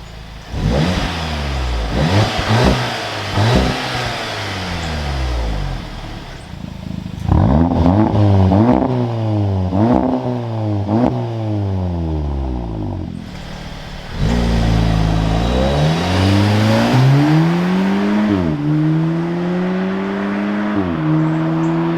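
Audi S3's turbocharged four-cylinder engine heard through its exhaust, revved in a series of quick blips, then accelerating hard with the pitch climbing and dropping back at each upshift.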